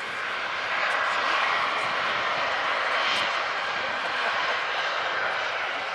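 Jet airliner engines roaring as an aircraft passes, swelling about a second in and then slowly easing off.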